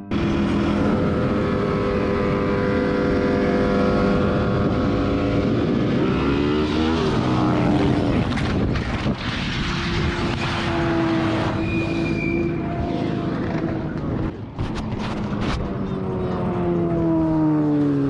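Motorcycle engine running on the road with heavy wind rush, its pitch falling twice as the revs drop. A few sharp clicks about fifteen seconds in.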